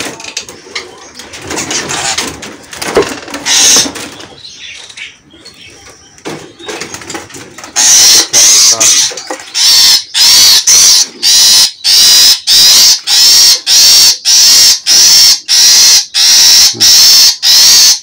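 A small caged bird calling loudly in sharp, evenly repeated notes, about one and a half a second, starting about 8 s in. Before that there are only softer, mixed sounds.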